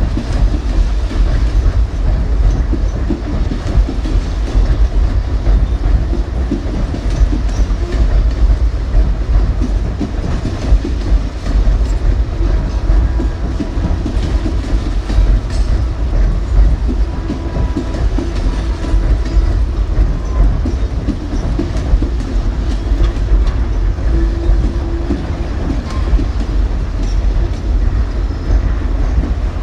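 Cumberland Mine Railroad coal train rolling past, its cars making a steady heavy rumble on the rails.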